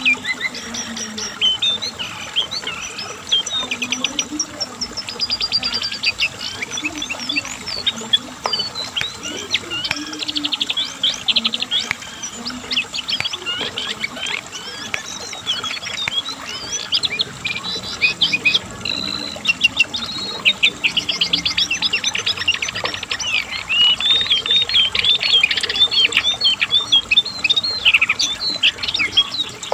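Cingcoang (jongkangan coklat) songbird singing a long, loud, non-stop song of rapid rattling trills and quick up-and-down whistled notes.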